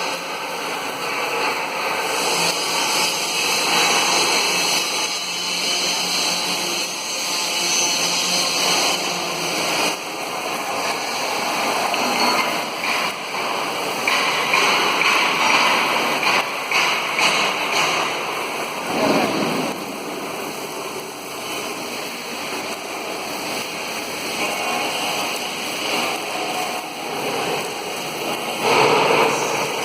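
Oxy-acetylene torch flame hissing steadily, with brief crackles around the middle.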